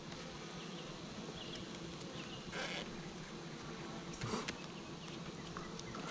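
Honeybees humming steadily at an open hive, the even hum of a calm colony. A couple of brief rustling noises come in about two and a half and four seconds in.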